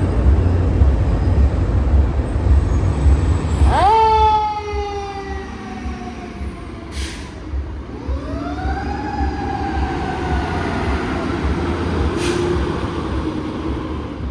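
Fire engine responding: heavy engine rumble, then its siren winds up sharply about four seconds in and slowly falls away, and winds up again about eight seconds in before trailing down. Two short hisses, typical of air brakes, come in between.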